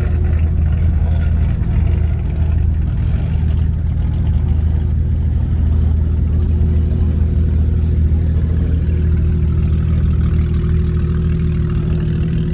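Car engine idling with a steady, unchanging low rumble.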